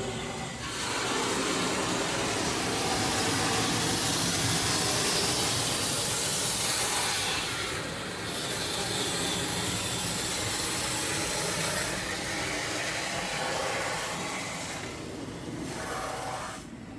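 Automatic car wash spraying water and scrubbing over the car, heard from inside the cabin: a steady rushing hiss that starts about a second in, dips briefly about halfway, and falls away near the end.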